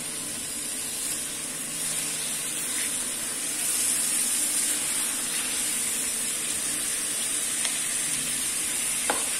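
Chicken pieces frying in ghee and ginger-garlic paste in a metal karahi, a steady sizzle, as they are turned with a slotted spatula.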